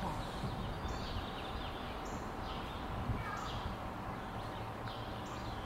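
A bird repeats a short, high call about five times, roughly once a second, over a steady background hiss of outdoor ambience.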